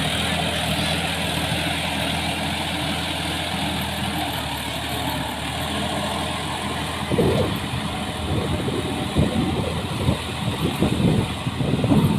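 Sonalika diesel tractor engine idling steadily. From about seven seconds in, irregular loud low thumps and rumbles break in over it.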